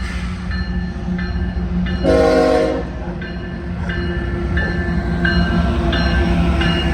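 Union Pacific diesel freight locomotive sounding its horn in one short blast about two seconds in, over the steady low rumble of its engine. Short high ringing tones repeat about every half second.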